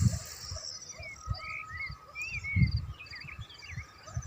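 Small birds calling around: short whistled glides and quick repeated trills, with a faint steady high tone behind them. Low muffled thumps come and go underneath, the loudest about two and a half seconds in.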